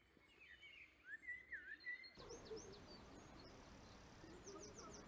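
Faint birdsong: twittering calls in short rising and falling notes, then, after an abrupt change to a steady faint hiss, scattered high chirps and a quick run of descending notes near the end.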